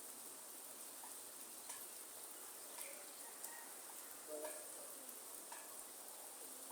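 Light rain falling steadily in a forest, an even hiss with a few louder drops ticking close by.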